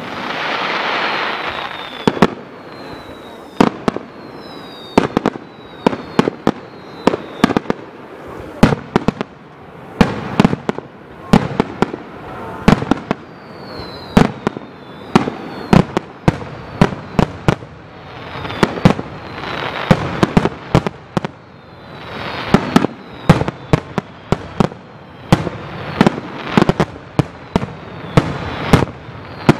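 Aerial fireworks bursting in rapid succession, dozens of sharp bangs close together. Falling whistles come several times among them.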